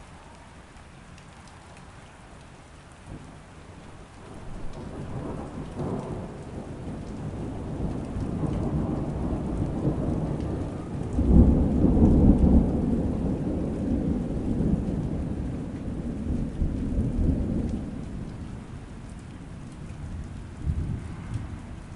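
Rolling thunder over steady rain: a low rumble builds from a few seconds in, peaks about halfway through and fades away, with a brief smaller rumble near the end.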